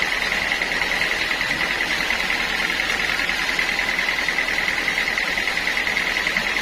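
Sawmill saw running steadily: an even, high-pitched whir with a rapid flutter that holds at one level throughout.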